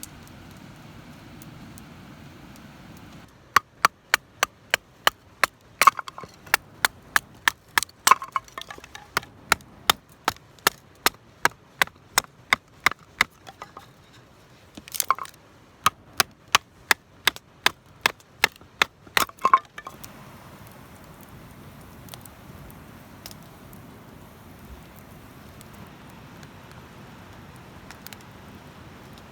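Firewood being chopped or split: a run of sharp wooden strikes, about two a second, with a short pause in the middle. The strikes stop about two-thirds of the way through.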